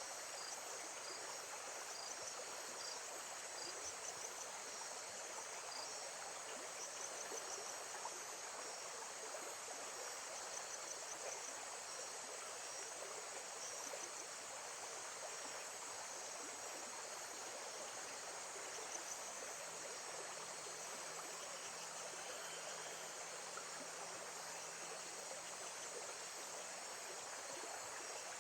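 Steady water sound with insects chirping and trilling continuously high above it, a nature-ambience recording.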